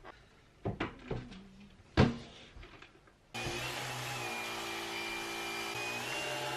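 A few knocks, the loudest about two seconds in, then an electric household appliance's motor switches on suddenly and runs steadily with a whine, its pitch stepping up slightly near the end.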